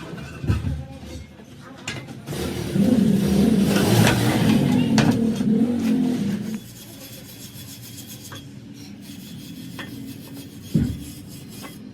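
Loud rasping scrape of metal being worked on a tractor axle tube, starting about two seconds in and lasting about four seconds. After it comes a lower steady noise with a few sharp knocks.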